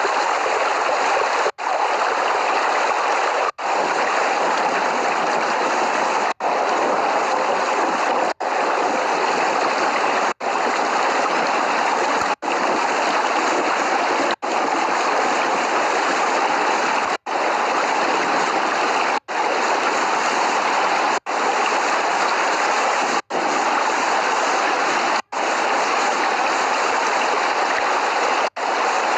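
Steady heavy rain, a dense even hiss of water, broken by a very short gap about every two seconds. No thunder is heard.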